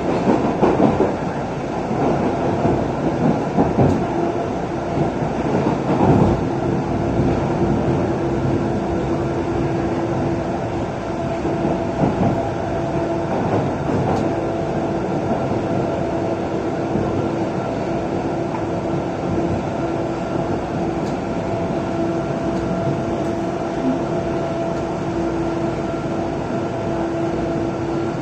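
MBTA Orange Line subway train running on the rails, a steady rumble with a held droning tone, and a few knocks from the wheels in the first six seconds.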